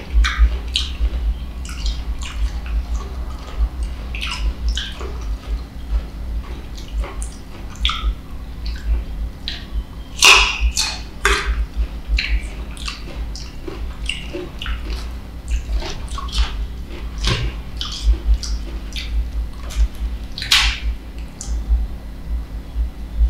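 Close-up wet chewing of ripe mango dipped in sweet fish sauce: soft sticky mouth clicks and smacks at an irregular pace, a few louder ones about ten seconds in and again near twenty seconds, over a steady low hum.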